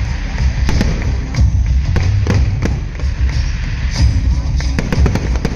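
Fireworks going off in frequent, irregular sharp bangs and crackles over loud music with a heavy bass.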